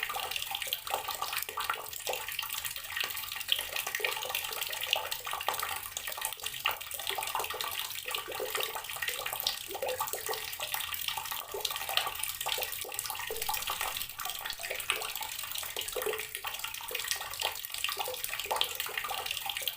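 Water from a tap running steadily into a filled container, splashing and burbling, with many small spattering flickers.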